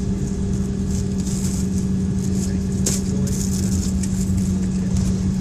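Jet airliner engines and airframe heard from inside the passenger cabin: a steady drone with a constant hum over a low rumble and a hiss, and a brief click about three seconds in.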